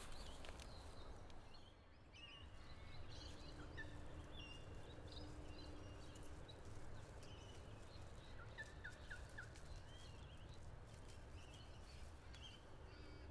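Faint outdoor ambience: a low, steady rumble of wind with scattered, faint bird chirps and short trills, including a quick run of four notes past the middle.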